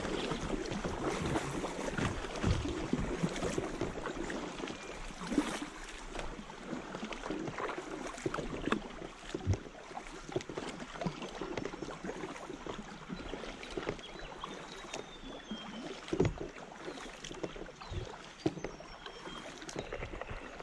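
Kayak being paddled on a flowing river: paddle blades splashing and dripping, water washing along the hull, and occasional knocks of the paddle against the kayak.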